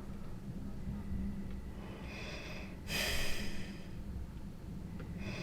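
A man breathing close to the microphone, with one short, sharp sniff through the nose about three seconds in, over a low steady hum.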